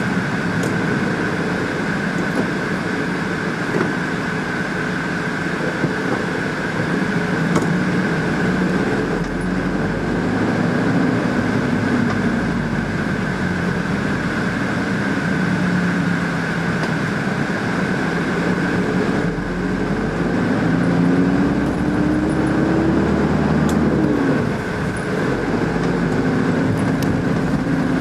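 A motor vehicle running, with steady noise and an engine tone that slowly rises and falls.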